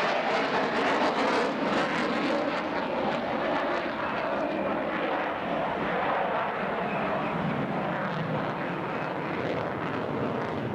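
Fixed-wing aircraft engine noise, a steady rushing sound that eases off slightly as the aircraft moves away.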